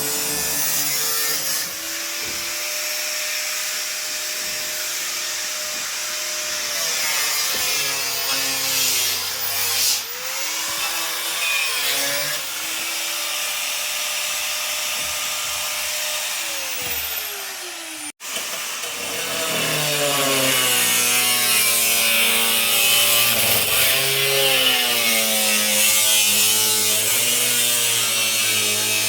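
Handheld power tool working on the van's body metal. Its pitch sags and recovers repeatedly as it is pressed in and eased off. It cuts out abruptly about two-thirds of the way through, then runs again louder.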